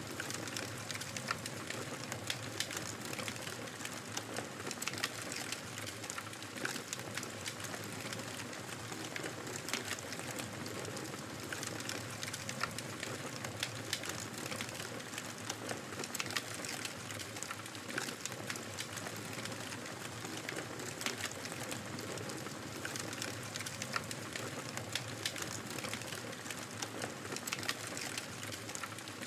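Fireplace fire crackling: a steady hiss with frequent sharp crackles and pops scattered throughout.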